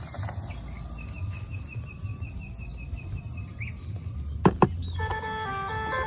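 A fast, even train of high chirps for about three seconds, then two sharp clicks, then a simple electronic tune of stepped beeps starts.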